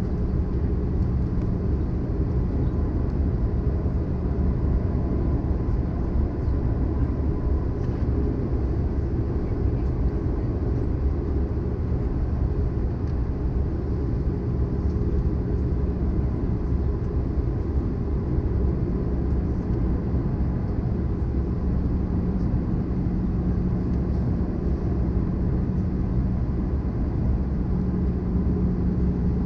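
Steady cabin noise of an Airbus A320-214 in descent: the rumble of its CFM56-5B turbofan engines and the airflow over the fuselage, with a steady low hum and a faint higher tone.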